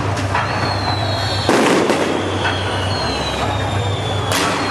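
Beehive fireworks: a dense barrage of bottle rockets and firecrackers crackling and banging without a break, with heavier bursts about a second and a half in and again near the end. Faint high whistles slide slowly down in pitch above the crackle.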